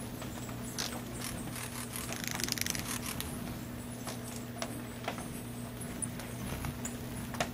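Steady rain falling on cloud-forest foliage, with scattered drips and ticks throughout. About two seconds in, a hummingbird gives a rapid buzzy trill, and short high chips sound near the end.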